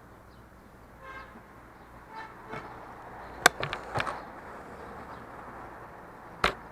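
Suzuki V-Strom DL250 motorcycle on the move, with steady wind and riding noise on an action camera. There is a short horn toot about a second in, and sharp knocks around the middle and one more near the end, the loudest about three and a half seconds in.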